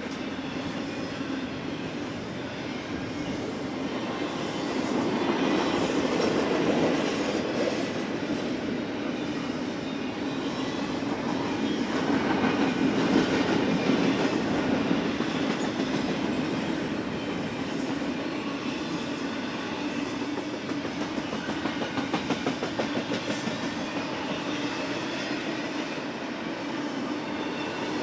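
Freight train's cars rolling past, a steady run of wheel clatter on the rails that swells louder a couple of times.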